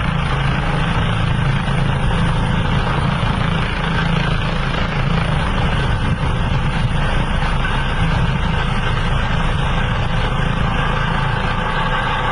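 Helicopter running steadily: a continuous loud drone of engine and rotor that does not change.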